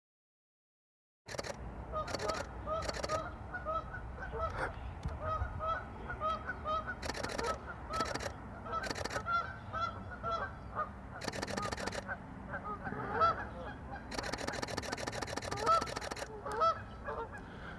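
A flock of Canada geese honking, many short calls in quick succession and overlapping, starting about a second in. Several brief rushes of noise come and go among the calls.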